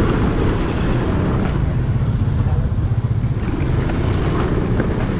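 Aprilia motorbike's engine running steadily while riding, with wind buffeting the microphone.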